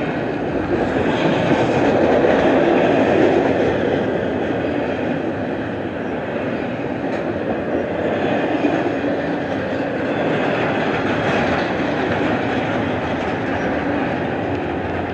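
Double-stack intermodal well cars of a long freight train rolling past close by: a steady rumble of steel wheels on rail with a few faint clicks. It is loudest about two to three seconds in.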